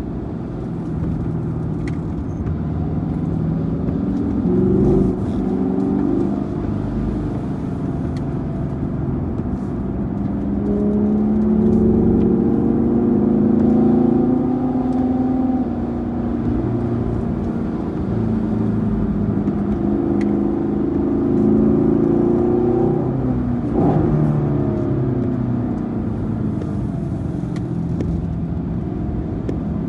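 Car V8 engine, likely a Camaro SS 1LE's 6.2-litre V8, driving under varying throttle, its pitch climbing and dropping several times as it accelerates and eases off.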